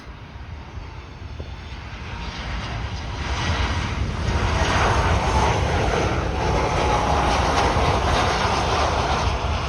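Boeing 737 jet airliner on final approach to land, its engine noise growing steadily louder over the first few seconds and then holding loud as it passes close, with a faint whine above the rumble.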